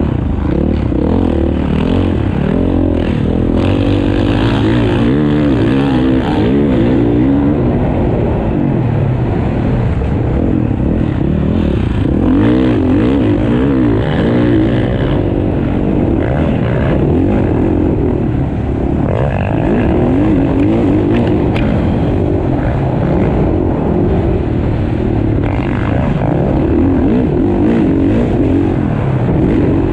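Several motocross bikes racing, their engines revving up and down as they accelerate and shut off around the track.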